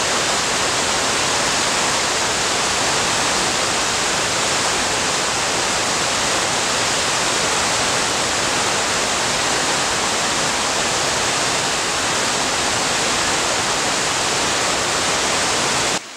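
Rushing creek water, a steady loud rush like a small waterfall, that cuts off suddenly near the end.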